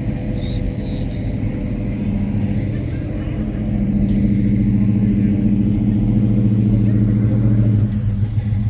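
Car engine running with a steady low rumble. It builds louder about halfway through, as if under throttle, then eases back near the end.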